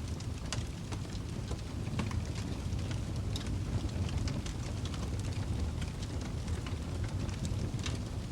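Wood fire burning in a fireplace: a steady low rumble of flames with irregular crackles and small pops.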